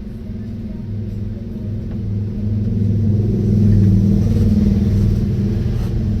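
GK-Tech 868 paper cutting machine running with a steady low motor hum, which swells louder through the middle and then eases slightly.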